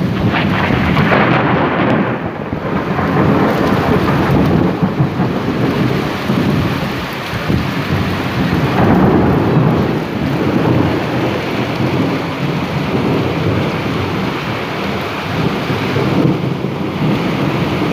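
Heavy rain pouring steadily, with louder swells of rumbling noise about a second in and again around nine seconds.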